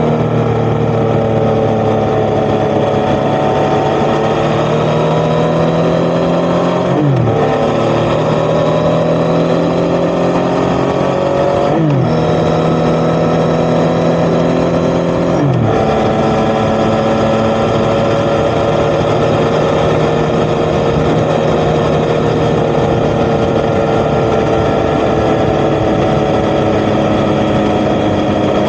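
Yamaha XSR900's three-cylinder CP3 engine through an Akrapovic titanium exhaust, pulling up through the gears: the revs climb and drop sharply with three upshifts in the first half, then hold at steady cruising revs.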